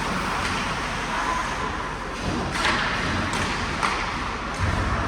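Ice hockey game ambience in an arena: a steady noisy wash of play and background voices, with a few sharp knocks from sticks, puck or boards.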